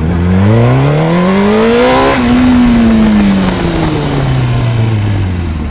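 Honda CBR600RR's inline-four engine heard from on the bike, revving up hard for about two seconds, then the revs falling away smoothly as the throttle is rolled off.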